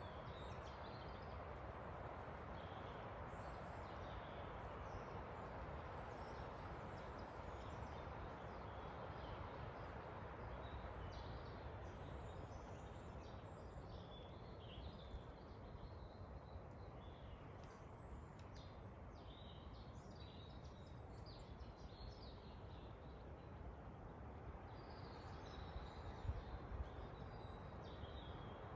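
Forest ambience: a steady rush of wind under small birds chirping and calling on and off, the calls busiest in the middle and again near the end.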